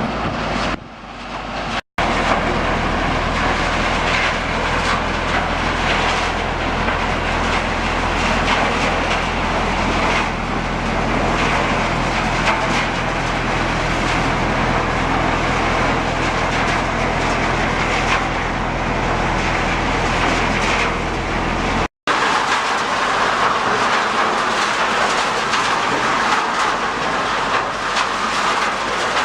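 Mobile trommel screen running: a steady machine drone under a noisy clatter of material tumbling through the rotating drum screen. The sound breaks off abruptly about two seconds in and again after about twenty seconds. After the second break the low drone is weaker and the clattering hiss is stronger.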